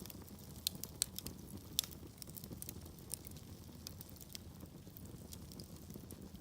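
Log fire burning with a low rumble and irregular sharp crackles and pops, the loudest about a second in and near the two-second mark.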